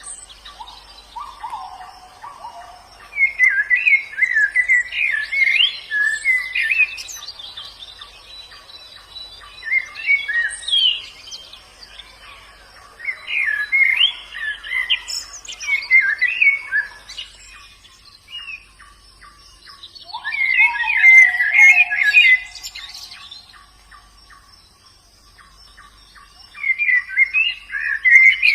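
White-eye (pleci) song: about five bursts of rapid, high twittering phrases a few seconds apart, with a few lower whistled notes and a faint, fast, regular ticking in the background.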